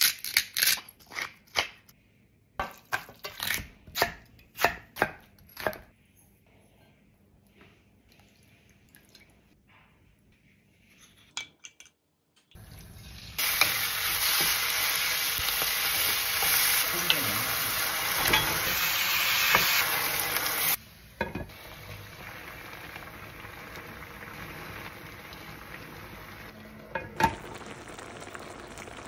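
A run of sharp clicks as seasoning is shaken onto raw meat, then, about halfway through, raw meat sizzling loudly as it is stir-fried in a wok with a wooden spoon. The sizzle drops abruptly to a quieter steady hiss of the dish cooking in the pan.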